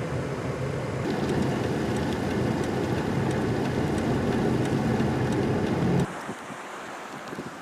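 An engine running steadily, with a low hum and a faint ticking about three times a second. It cuts off suddenly about six seconds in, leaving a quieter windy hiss.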